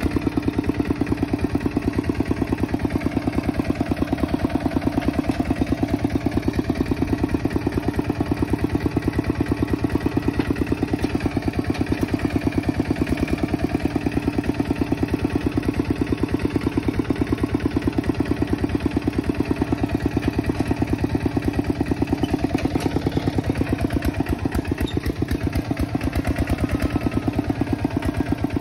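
Kubota tractor's diesel engine running steadily at a constant speed, with a fast, even chugging pulse.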